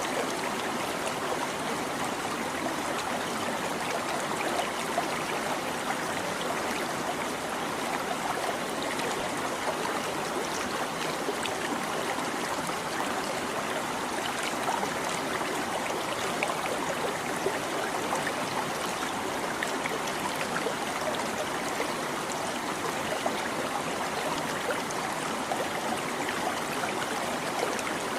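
A shallow stream babbling and trickling steadily over rocks, a continuous rush of water with small splashes and gurgles.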